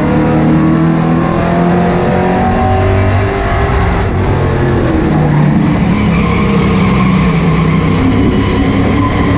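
Super stock race car engine running hard at racing speed, its pitch falling and rising with the throttle through the corners and straights.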